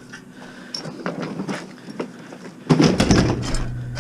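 A dishwasher being thrown down: a few light knocks, then a loud thump and rattling clatter of sheet metal about two and a half seconds in, dying away over about a second.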